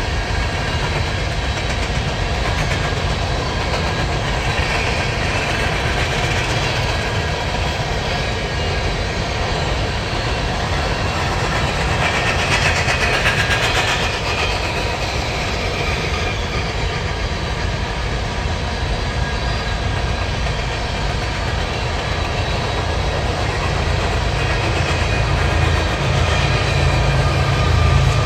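BNSF coal train's loaded coal gondolas rolling past steadily, steel wheels clattering over the rail joints with a faint metallic ringing that swells briefly about halfway through. Over the last few seconds a deeper rumble builds as the train's locomotives draw near.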